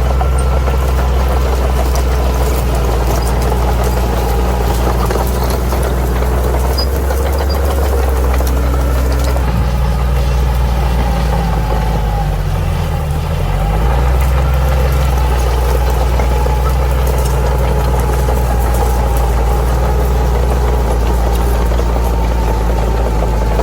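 Bulldozer's diesel engine running steadily. About halfway through its note sags briefly and then picks back up.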